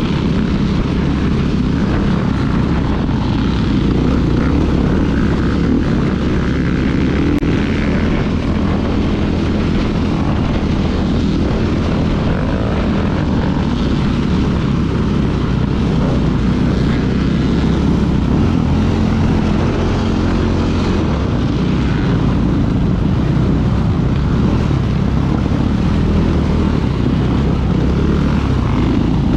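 2016 KTM 500 EXC's single-cylinder four-stroke engine running under load while the dirt bike is ridden off-road. The engine note rises and falls with the throttle, with wind and ground noise over it.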